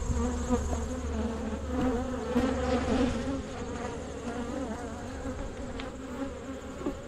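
Many honey bees buzzing over an open hive, a dense drone whose pitch wavers and swells, a little louder in the first half.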